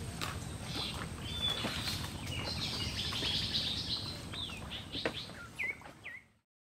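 Birds chirping, with repeated short calls and quick downward-sweeping notes over a steady low rumble of background noise; the sound cuts off suddenly a little after six seconds.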